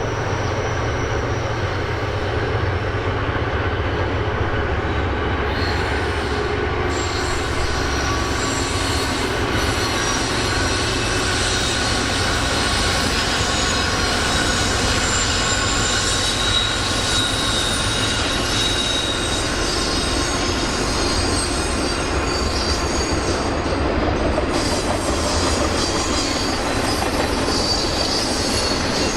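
A train rolling past, with steel wheels squealing against the rail over a continuous low rumble.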